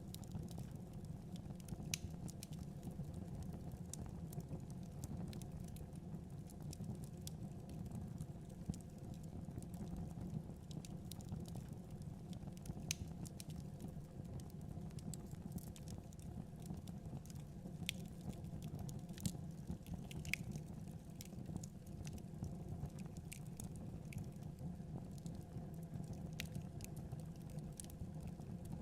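Wood fire burning in a fireplace: a steady low rush of flames with scattered, irregular sharp crackles and pops.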